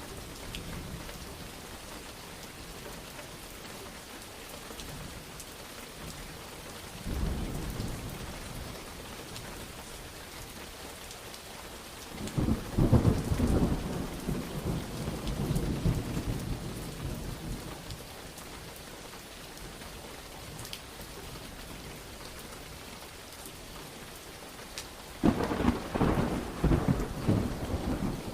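Steady rain falling, with thunder rumbling three times: a short roll about a quarter of the way in, a long loud rumble just before the middle, and another crackling rumble near the end.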